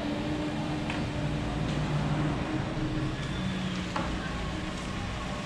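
A car's engine running at low revs as the car moves off slowly, a steady hum with a few faint clicks.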